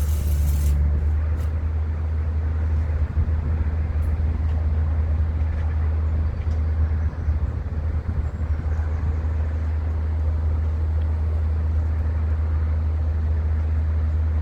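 An engine or motor running steadily with a deep, unbroken hum, and a short hiss that stops about a second in.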